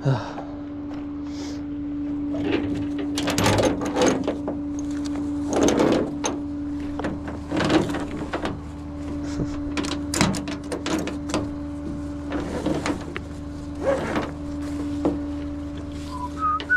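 Steady drone of a running tow truck with a string of metallic clunks and knocks as a vehicle is loaded onto the flatbed. A few short high chirps come near the end.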